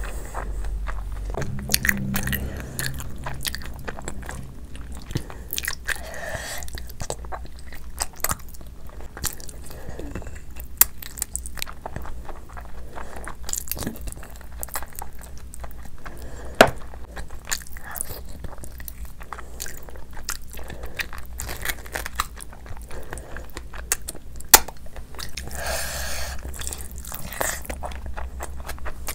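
Close-miked eating: wet chewing and lip-smacking of curry and rice eaten by hand, with gnawing on curried mutton on the bone. Sharp crunches stand out now and then.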